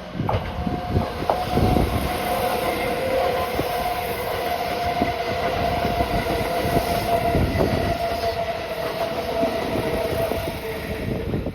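Keihan electric express train passing at speed without stopping: wheels clattering over rail joints, with a steady high tone held through most of the pass. The sound falls away near the end as the train goes by.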